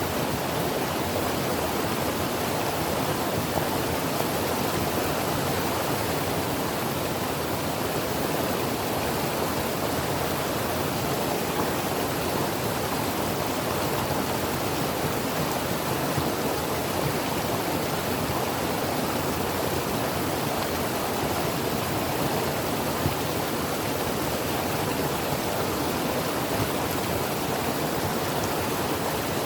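Creek water flowing over rocks: a steady, even rushing with no change.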